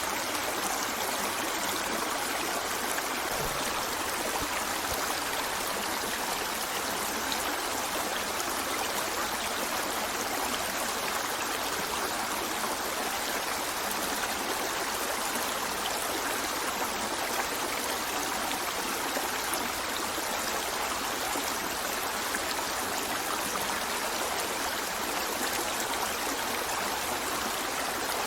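River water flowing and trickling over rocks, a steady, even rush with no distinct events.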